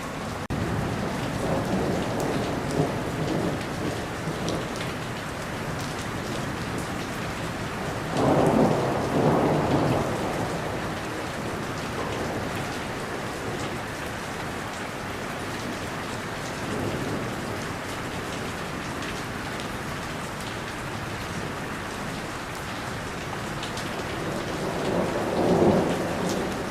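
Thunderstorm: steady rain with rolling thunder, which swells into louder rumbles about a third of the way in and again near the end.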